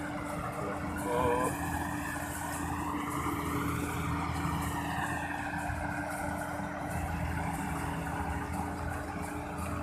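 Rice combine harvester, a Kubota DC35, running steadily in a muddy field, its diesel engine and threshing machinery holding a constant hum that swells and fades slightly as the machine moves. A short, high pitched note sounds briefly about a second in.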